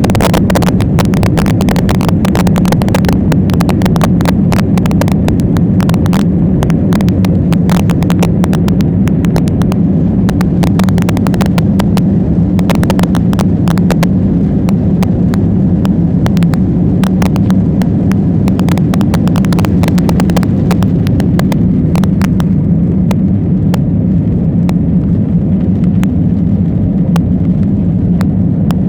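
Jet airliner taking off: a loud, steady low rumble with many quick knocks and rattles, which thin out about two-thirds of the way through.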